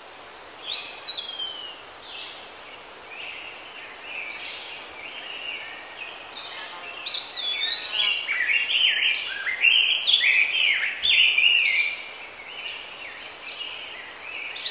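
Several songbirds singing and chirping at once, their short calls overlapping. The calls thicken into a busy chorus from about seven seconds in, over a steady background hiss.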